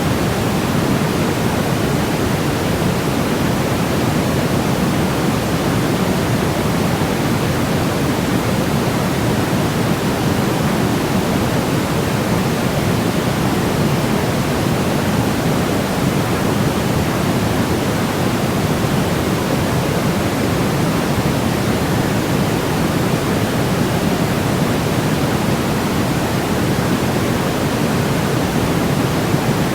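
Steady, unchanging sleep-sound noise with its weight in the low and middle range, a deep hiss like pink noise rather than a bright white hiss. It plays without a break at an even level.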